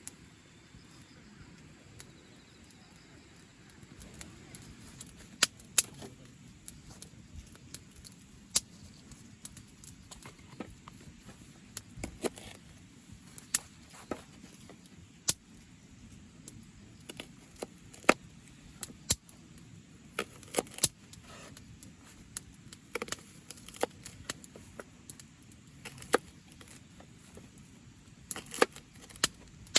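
Irregular sharp clicks and light clinks, roughly one every second or so, over a faint low background hum.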